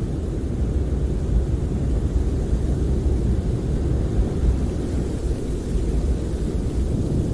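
Snowstorm wind heard from inside a camper: a steady, low rumble without a break.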